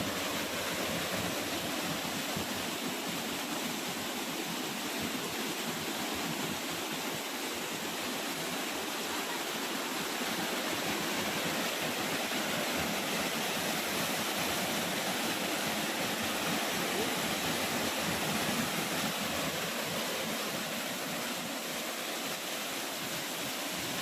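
Waterfall's falling water rushing in a steady, unbroken roar.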